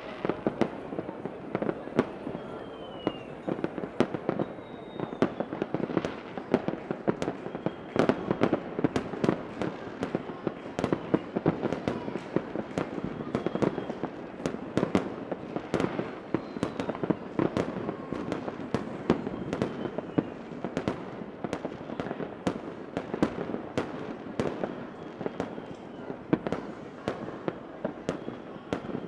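Fireworks going off continuously: many sharp bangs and crackles in quick, irregular succession, with a few faint short whistles now and then.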